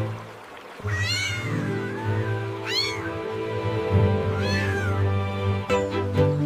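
Cartoon cat meowing three times, each call rising and then falling, over background music.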